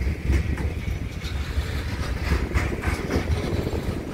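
Freight train wagons rolling past: a steady low rumble with irregular clicks from the wheels on the rails.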